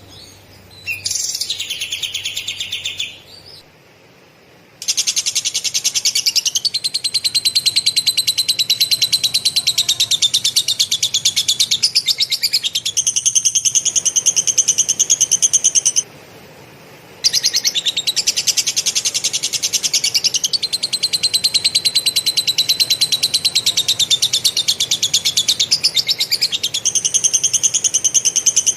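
Kapas tembak songbird singing lovebird-style material: a short call near the start, then long, fast rolling trills of rapidly repeated high notes lasting several seconds each, broken by a brief pause about two-thirds of the way through.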